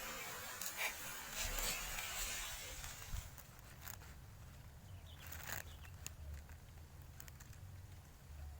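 Wind blowing and rumbling on the microphone, with rustling and a few small clicks; the hiss of the gust eases after about three seconds.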